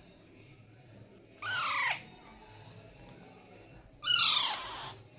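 Baby Alexandrine parakeet giving two harsh calls, about two and a half seconds apart, each falling in pitch.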